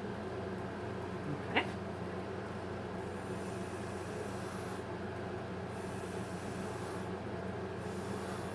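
A breathy hiss of air blown through a drinking straw to push wet pour paint, coming in a few long blows over a steady background hum, with one sharp click about one and a half seconds in.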